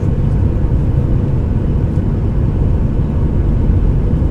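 Steady low rumble from a Boeing 737-800 airliner, holding even with no rise or fall.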